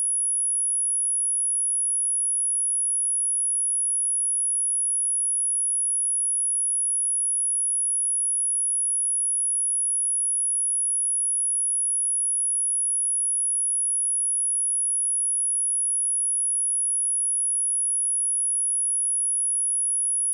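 Steady, unbroken high-pitched pure sine tone at 10297 Hz, a speaker test tone, holding one pitch at constant level.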